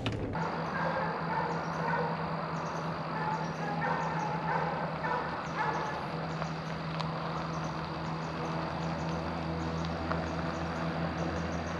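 Steady low drone of a vehicle engine, with a warbling higher sound over the first six seconds or so.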